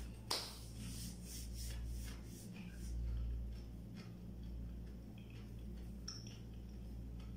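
Chewing a crunchy fried binangkal dough ball: a sharp crunch a moment in, then a run of small crisp crackles that thin out after a few seconds.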